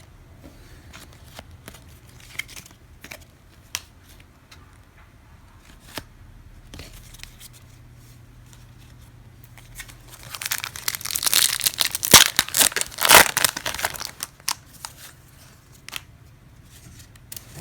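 A trading-card pack wrapper being torn open and crinkled for about four seconds, starting about ten seconds in, after a stretch of scattered small clicks and taps.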